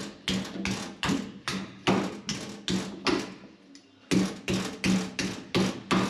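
Hammer blows struck at a steady pace, about two and a half a second, each with a short ring; they pause for about a second a little past halfway, then carry on.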